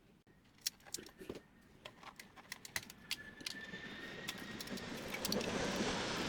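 Small hard printer parts clicking and rattling as they are handled, a quick irregular run of sharp clicks. After about three and a half seconds a rustling noise swells up and is loudest near the end.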